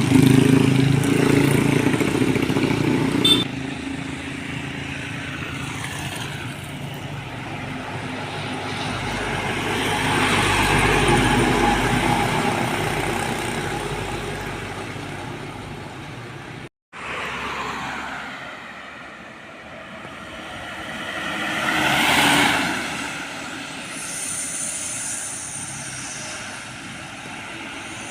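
Trucks on a road: an engine running close at first, then two vehicles passing one after another, each swelling and fading, about a third of the way in and again past the middle, with a brief cut between them.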